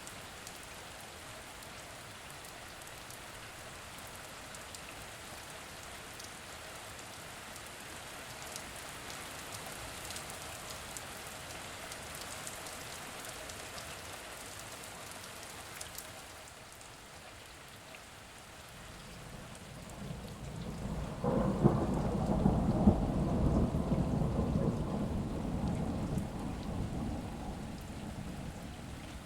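Steady rain falling, with fine patter of drops. About twenty seconds in a long roll of thunder builds, is loudest for several seconds, then slowly dies away under the rain.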